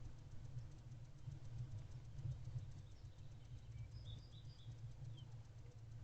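Low steady rumble picked up by the owl box's microphone, with a few faint, short, high chirps about four seconds in.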